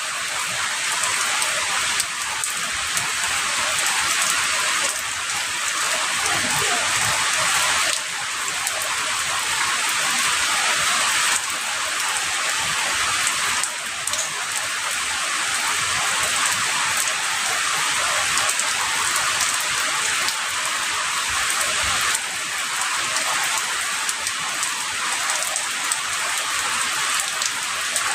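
Heavy rain falling steadily: a dense hiss of drops with scattered individual ticks, its tone shifting slightly every few seconds.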